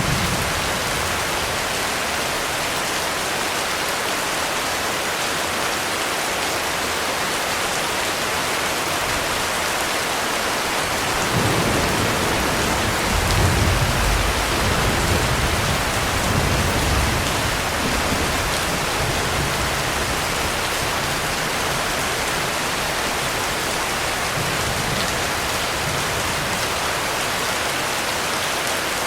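Heavy rain falling steadily. About eleven seconds in, a low rumble of thunder rolls in and fades over several seconds.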